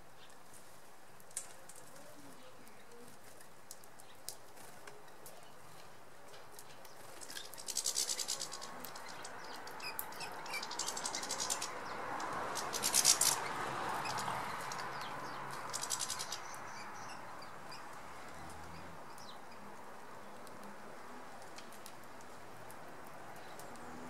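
Small garden birds calling in several short high-pitched bursts through the middle of the stretch, over a steady background hiss, with a broad swell of noise under the loudest calls.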